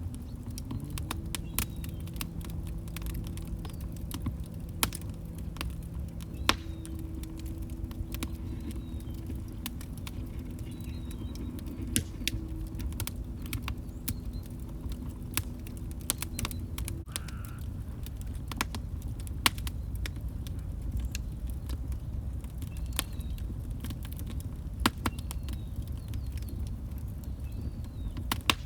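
Wood fire burning in a fireplace: a steady low rumble of flames with frequent sharp crackles and pops at irregular intervals. A faint low steady tone sits under it through the first half and stops about 17 seconds in.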